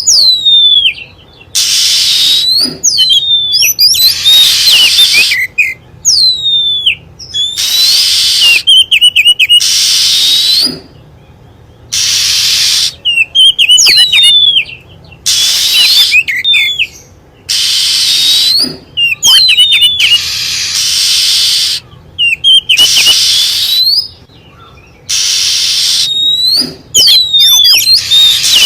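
Oriental magpie-robin calling: loud whistled notes that sweep down and up, alternating with harsh hissing rasps, repeated in short phrases every second or two.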